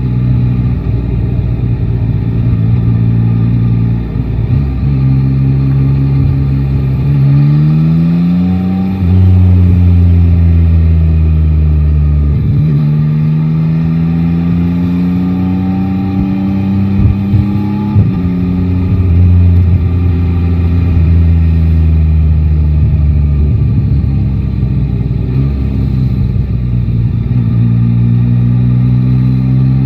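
Yamaha Tracer 9 GT's 890 cc inline-three engine pulling through the gears under a rider. Its pitch climbs, drops sharply at gear changes about twelve and eighteen seconds in, holds steadier for a while, then climbs again near the end.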